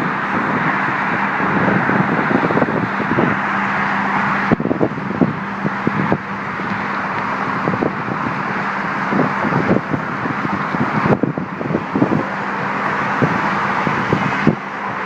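Steady road traffic noise with wind buffeting the microphone in irregular low gusts.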